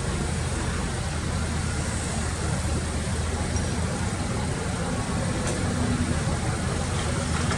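Diesel engine of heavy earthmoving machinery running steadily at an even level, with no knocks or changes in pitch.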